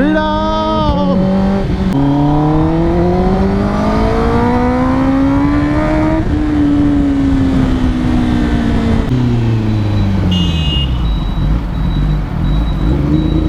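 Kawasaki ZX10R inline-four superbike engine through an Arrow Indy Race exhaust, heard from on the bike. After a shift about two seconds in, the revs climb steadily for a few seconds, then fall away as the bike slows and settle low near the end.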